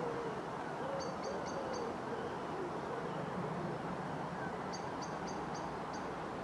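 Birds calling: a low, wavering cooing call repeats throughout, and two quick runs of short high chirps come about a second in (four notes) and again near the end (five notes), over a faint steady background hum.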